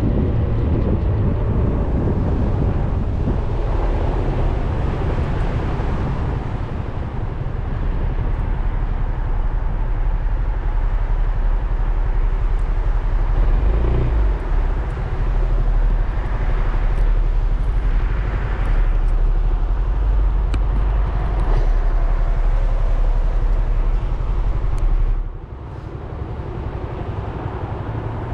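Suzuki Burgman 400 scooter's single-cylinder engine running on the move, under a steady rush of wind and road noise. Near the end the sound drops off suddenly, as when slowing, and then the engine note rises again as it pulls away.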